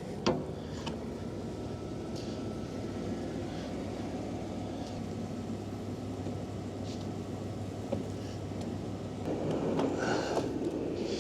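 Pickup truck engine idling steadily, warming up after a cold start in freezing weather. A sharp knock comes just after the start, and a louder rustling noise rises near the end.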